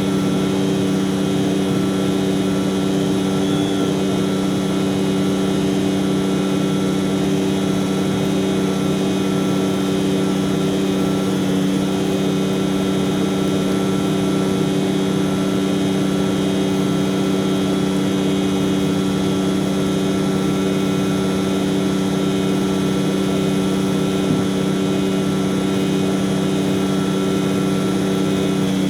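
Heavy truck's diesel engine running at a steady speed, an unchanging low drone.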